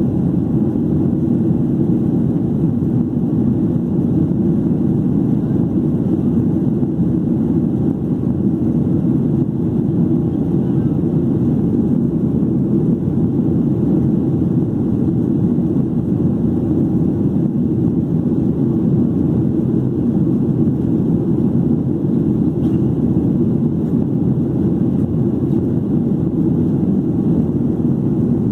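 Steady cabin drone of a Boeing 737-800 in flight after takeoff: the CFM56-7B engines and rushing airflow heard from a rear window seat, a constant low rumble that does not change.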